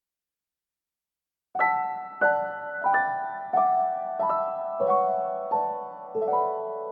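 Background piano music: silence for about a second and a half, then a slow, gentle piano piece with chords struck about every half second and each one fading away.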